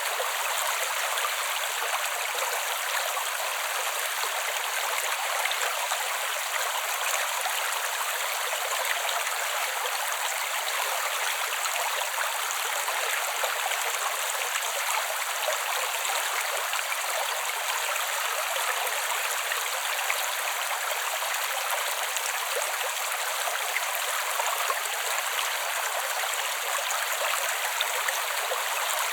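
Creek water flowing over stones, a steady, even rushing with small gurgles and trickles.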